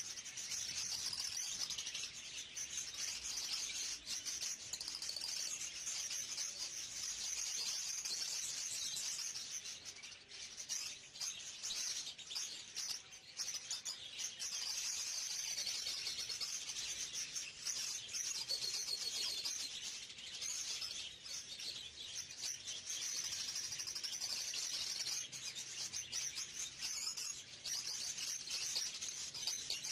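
Many small birds chirping together in a dense, continuous chatter of high-pitched tweets.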